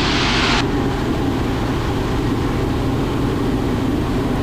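Robinson R44 Raven II helicopter in cruise flight, heard from the cockpit: the steady drone of its piston engine and rotors. A hiss over it cuts off suddenly about half a second in.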